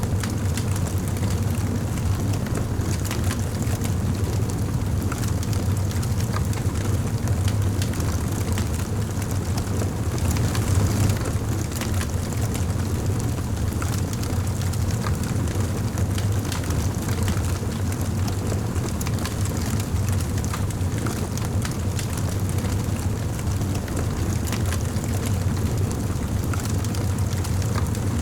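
Fireplace fire burning with a steady low rumble and frequent small crackles and pops throughout.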